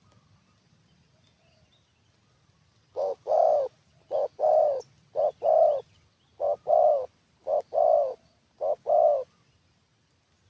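A dove cooing: six two-part coos, each a short note followed by a longer one, about a second apart, starting about three seconds in.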